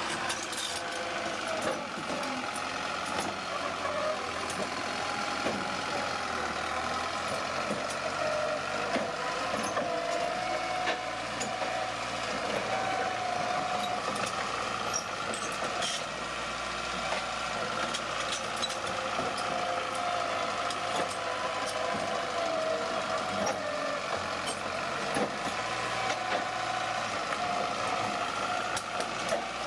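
Bulldozer at work: its diesel engine runs steadily with a wavering whine, and scattered metallic clanks come through.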